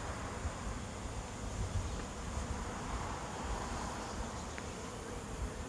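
A honey bee swarm humming steadily as the bees move into a swarm trap box, with a low, uneven rumble underneath.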